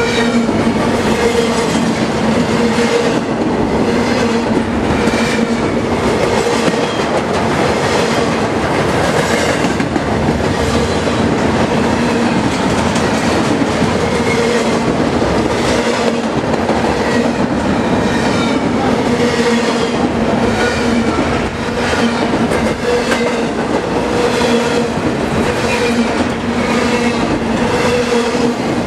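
BNSF freight train of empty intermodal cars (a bare-table train) rolling past at speed: a steady rumble with wheels clacking over rail joints and a low steady hum from the rolling cars.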